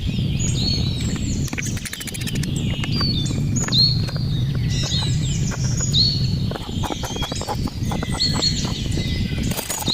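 Small birds chirping in short, repeated, falling calls, over a low steady rumble, with scattered light clicks and knocks, including a quick run of them about two seconds in.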